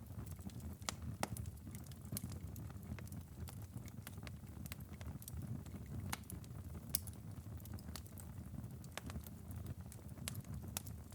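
Glowing ember bed of a wood-burning fireplace crackling: irregular sharp pops and ticks over a low steady rumble. The two loudest pops come about a second in and about seven seconds in.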